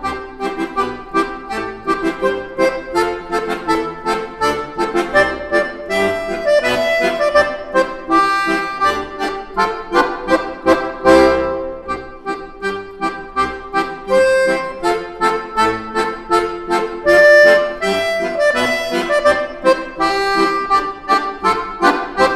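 Background music played on accordion, a brisk tune with regular note attacks.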